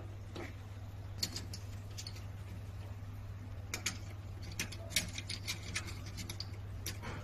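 Scattered light clicks and taps of small tools and wiring parts being handled during disassembly of lab deposition equipment, coming in irregular clusters, over a steady low hum.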